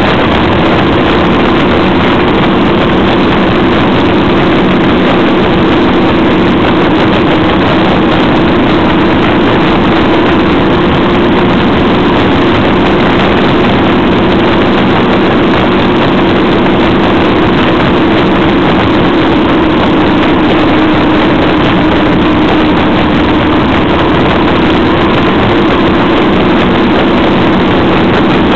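Motorcycle engine running at a steady cruising speed under heavy, loud wind rush on the microphone while riding; the engine note holds nearly level throughout.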